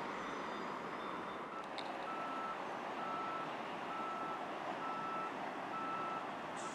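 Electronic warning beeper sounding short, evenly spaced beeps about once a second, over a steady background rumble. A higher-pitched beeping runs until about a second and a half in, then a lower-pitched beeping takes over.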